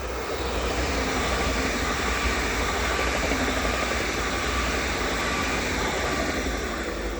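ED250 Pendolino electric multiple unit passing at speed: a rush of wheel and air noise that swells, holds loud and fades away near the end.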